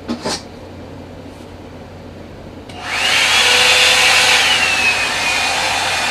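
Two short clicks near the start, then about three seconds in a Revlon One-Step hot-air brush dryer switches on: a loud steady rush of air with a motor whine that dips slightly in pitch and settles.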